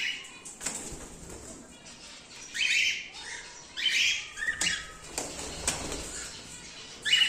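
Cockatiels calling: a string of short, harsh calls about a second or so apart.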